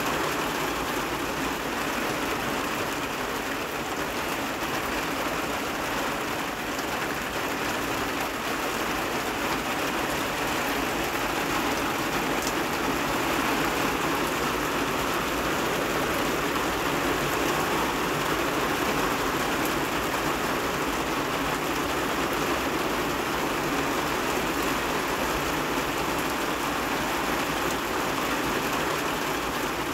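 Heavy rain falling steadily: an even, dense hiss with no let-up and no single drops standing out.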